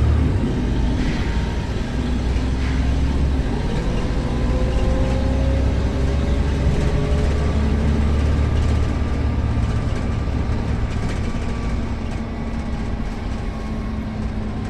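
Volvo B7RLE bus's six-cylinder turbodiesel engine running steadily, with its note rising about four seconds in as it pulls harder.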